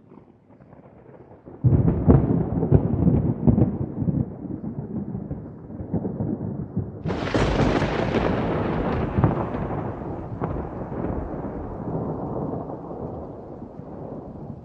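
Thunder: a low rumble builds, then a loud crackling clap breaks about two seconds in. A second, sharper crack comes about seven seconds in, and the thunder rolls on and slowly fades.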